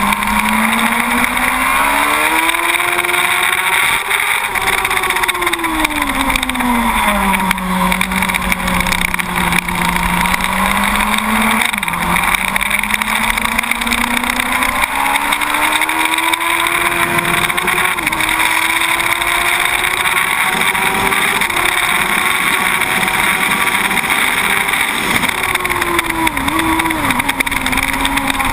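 Yamaha R1 SP inline-four engine heard from on board at track speed, its revs rising and falling through the corners, with a sharp drop in pitch about twelve seconds in and a couple of quick dips near the end. Heavy wind rush runs over the microphone throughout.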